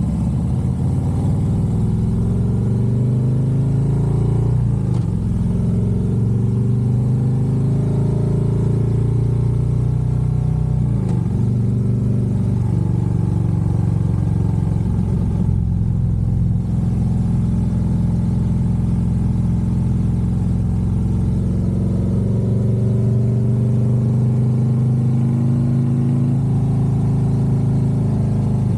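Harley-Davidson Road Glide's V-twin engine running under way at a steady loud level. Its pitch dips and climbs back a few times as the rider works the throttle and gears.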